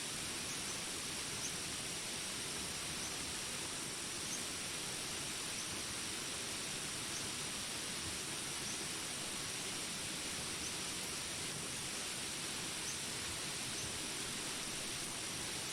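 Jungle rain ambience: a steady hiss of rain with a constant high-pitched drone above it and short, high chirps every second or two.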